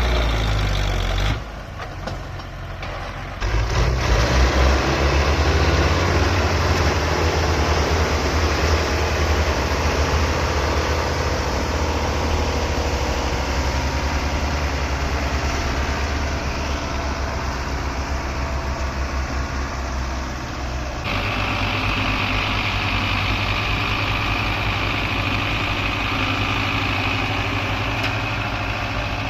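Belarus tractor's diesel engine running with a steady low throb. The sound drops suddenly about a second and a half in, comes back louder two seconds later, and changes abruptly in tone about two-thirds of the way through.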